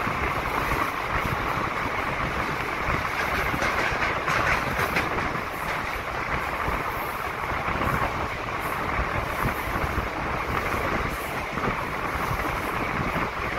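Konkan Railway passenger train running through a rock tunnel, heard from an open coach doorway: a steady, loud noise of wheels on rail and rushing air, enclosed by the tunnel walls.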